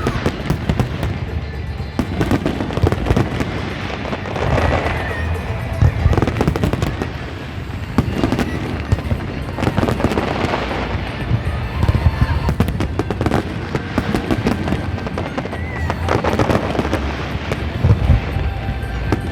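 Fireworks display: a continuous run of bangs from bursting shells with crackling in between, and a few short whistles.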